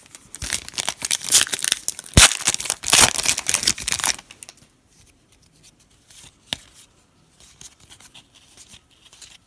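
A foil-wrapped pack of 2017 Panini Donruss football cards being torn open: loud tearing and crinkling of the wrapper for about four seconds, then quieter rustling as the cards are handled, with a single sharp click partway through.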